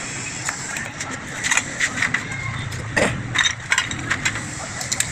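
Steady low engine hum with a scatter of sharp clicks and knocks, the loudest about three seconds in.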